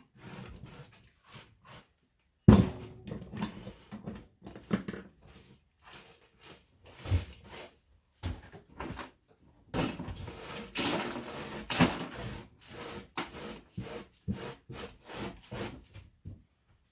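Irregular clattering, knocking and scraping as scrap debris from stripped light ballasts is gathered up and cleared away, with a sharp knock about two and a half seconds in and a busier stretch of scraping near the middle.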